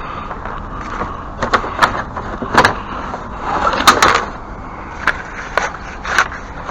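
Objects being handled and moved about: a scattered series of knocks and clatters, with a scrape about three and a half seconds in that builds to the loudest knock near four seconds.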